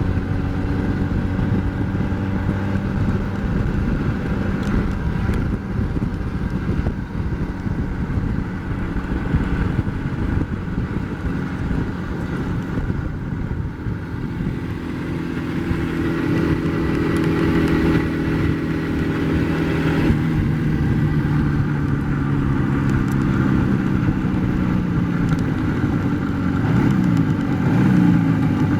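IZh Jupiter-4 motorcycle's 350 cc two-stroke twin engine running under way, its pitch stepping up about halfway through and rising and falling again near the end as the throttle changes.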